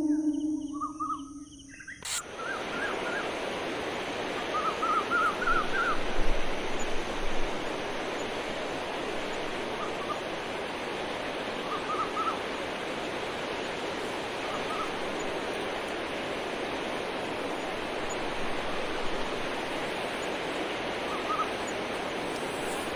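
A howl-like animal call fades out, then, about two seconds in, a steady rushing outdoor hiss begins with short bird calls in quick little groups of rising notes every few seconds.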